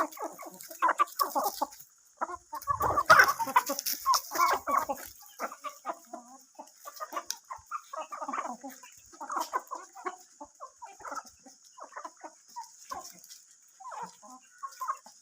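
Chickens clucking: many short, irregular calls, busiest in the first five seconds and sparser after that, over a steady high hiss.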